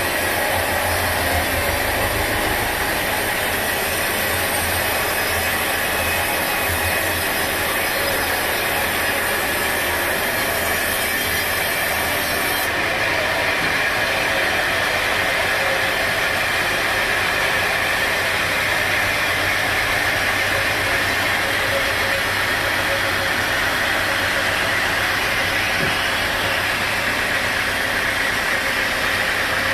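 Sawmill machinery running steadily, a continuous mechanical drone and hiss with no pauses; the low rumble drops away about halfway through.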